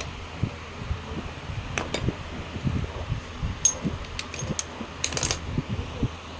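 Metal tools and engine parts clinking and knocking as they are handled. There is a sharp ringing clink just under four seconds in and a quick rattle of clinks about five seconds in, over irregular low knocks.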